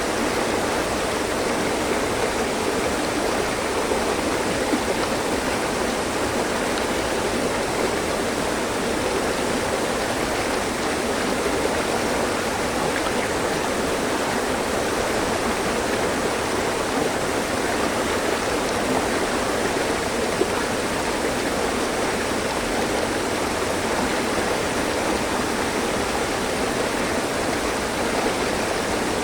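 Mountain stream rushing and splashing over rocks, a steady even flow of water.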